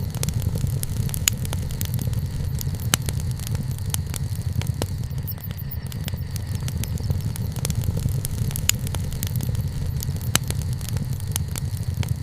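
Wood bonfire crackling: scattered sharp pops, a few louder than the rest, over a steady low rumble.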